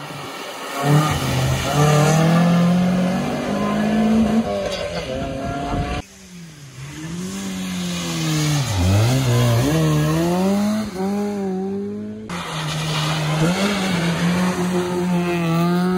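Rally cars' engines revving hard as they approach on a wet road, the pitch repeatedly climbing and dipping, with one sharp drop and recovery a little after halfway. The engine sound cuts off abruptly twice, at about 6 and 12 seconds, as a different car takes over each time.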